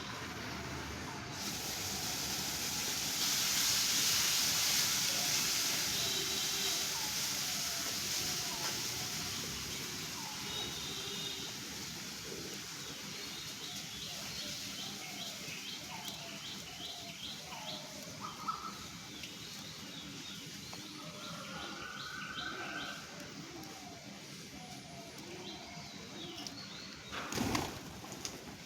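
A flock of birds chirping and calling, many short repeated chirps over a background hiss that swells a few seconds in and then eases. A single sharp knock near the end.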